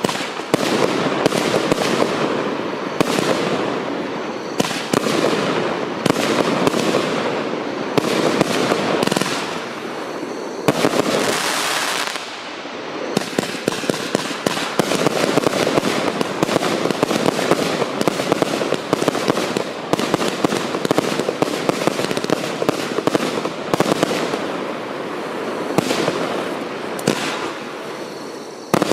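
Apocalypse Bright Star compound firework cake firing: a rapid, unbroken run of shots and bursting shells, dense popping and bangs throughout, with brief surges where several go off close together.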